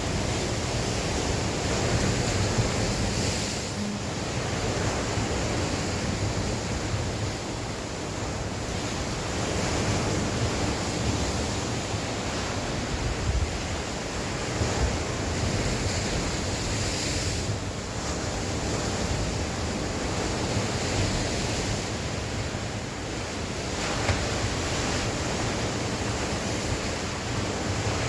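Sea waves surging and washing onto the shore in strong wind: a continuous rushing that swells and eases every few seconds.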